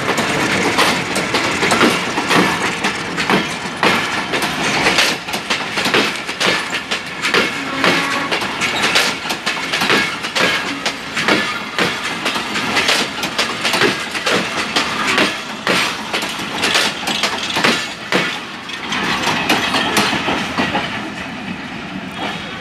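Passenger coaches rolling past at close range, their wheels clicking and knocking over the rail joints in a steady clickety-clack. The clatter eases off near the end as the last coach draws away.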